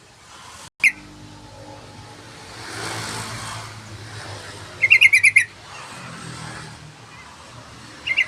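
Yellow-vented bulbul (trucukan) calling: a short note about a second in, then a loud, rapid bubbling run of about seven notes midway, and another short burst near the end. A soft hiss swells and fades in the background.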